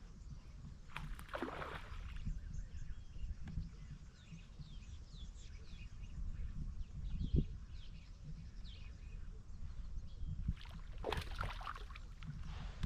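Low rumble of wind and water around a fishing kayak, with faint high chirps in the background. Two short bursts of noise stand out, about a second in and again near the end.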